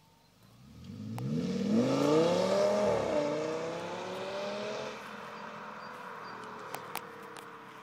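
Audi S8's 5.2-litre V10 accelerating hard past. The engine note climbs for about two seconds, drops at a gear change about three seconds in, climbs again, then falls in pitch and fades as the car goes away.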